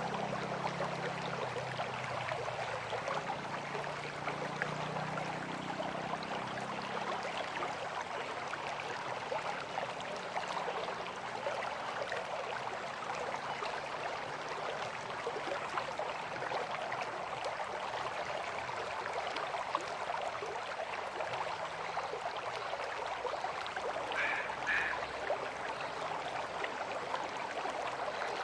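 River water flowing and rushing in a steady wash. A faint low hum fades out over the first several seconds, and two short high chirps come near the end.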